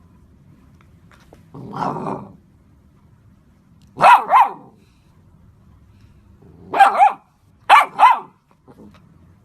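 A golden retriever gives a low growl about two seconds in, then barks in quick doubles: a pair of barks about four seconds in and two more pairs near the end.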